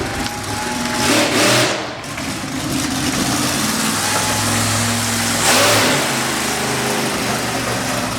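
Monster truck engine running and revving, with two sharp, loud rev-ups: one about a second in and another about five and a half seconds in.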